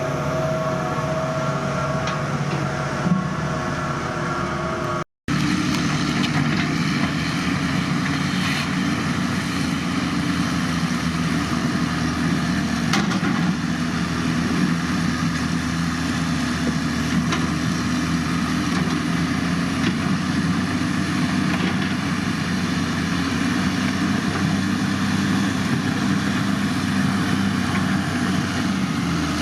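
Diesel engine of heavy road-construction machinery running steadily. It breaks off for an instant about five seconds in, and a different engine sound, with lower, stronger tones, carries on after the break.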